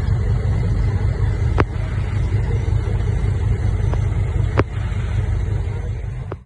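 Heavy diesel engine of earth-moving machinery running steadily with a deep rumble, with a few sharp clicks over it. The sound stops abruptly at the end.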